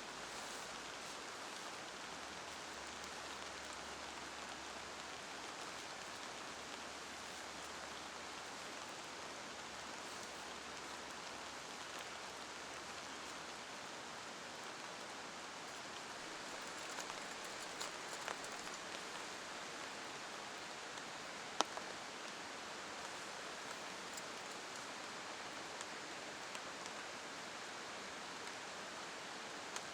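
Steady rain falling, an even hiss with a few light drip ticks. A single sharp click comes about two-thirds of the way in.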